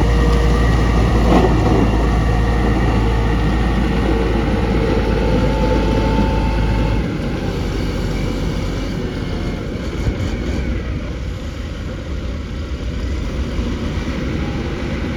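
Bulldozer diesel engine running, with a heavy low rumble that eases off about seven seconds in.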